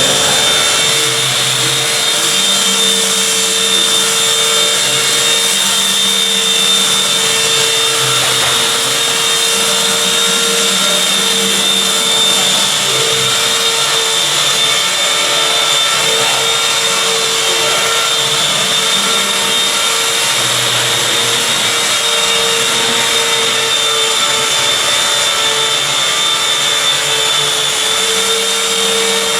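An electric motor running steadily with a constant high whine over a rushing hiss, the sound of workshop machinery such as a dust extractor or power tool.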